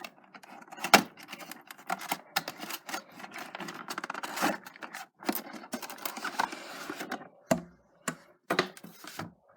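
A cardboard model box and its packaging handled as a die-cast model airliner is taken out: irregular clicks, taps and rustling, with one sharp knock about a second in.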